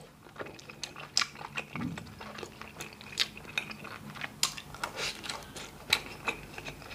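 Close-miked chewing of a mouthful of boiled beef: irregular small clicks and smacks from the mouth as it chews with lips closed.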